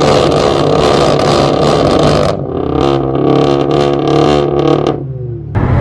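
Straight-piped turbocharged four-cylinder car engine revving hard and held high, then dropping to a lower, steadier pitch about two seconds in. The revs fall away near the end before a sharp blip just before it finishes.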